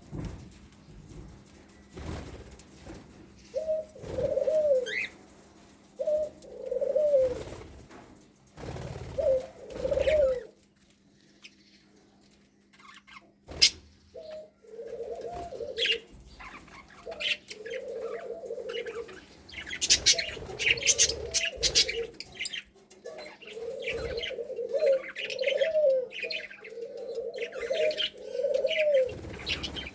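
Cage birds calling: a low call repeated over and over, about one arched note a second, mixed with bursts of high budgerigar chirping that are thickest past the middle and near the end. A single sharp click about halfway through.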